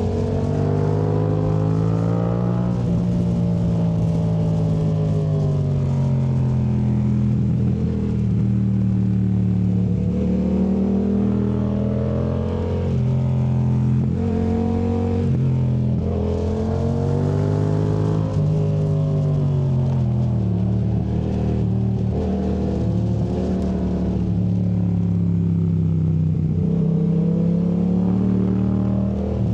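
2019 Yamaha MT-07's parallel-twin engine through a Yoshimura AT2 Race exhaust, revving up and falling back again and again as the throttle is rolled on and off through tight corners, mostly in third gear.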